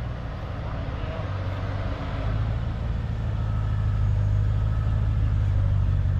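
A car engine running steadily, a low even rumble that grows slightly louder.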